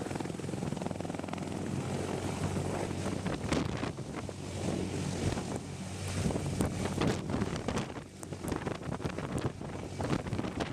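A large helicopter running, a steady low hum of engines and rotor, with heavy wind buffeting the microphone in irregular gusts.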